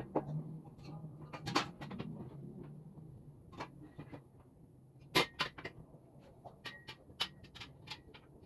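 Irregular light clicks and knocks of parts and tools being handled during assembly, a few with a brief metallic ring, over a low steady hum. The two loudest knocks come about a second and a half in and about five seconds in.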